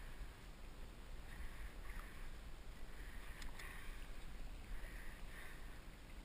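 Steady rush of river water with a low rumble underneath.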